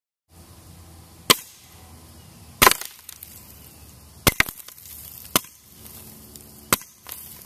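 Suppressed .22 shots from a Smith & Wesson M&P 22 wearing an SWR Spectre II suppressor: about six sharp cracks roughly a second apart, one of them a quick double near the middle.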